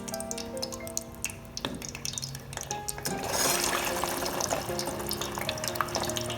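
Kitchen water: scattered drips and small clicks, then a tap running into a sink from about three seconds in, over soft background music.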